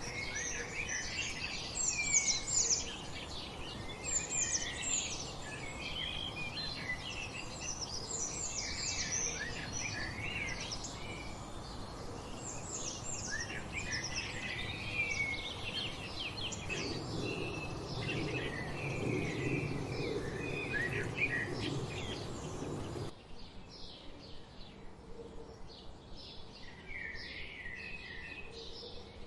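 Wild birds singing and chirping, several calls overlapping, over a steady background hiss. About 23 seconds in the sound cuts abruptly to a quieter recording where short calls repeat at an even pace, about twice a second.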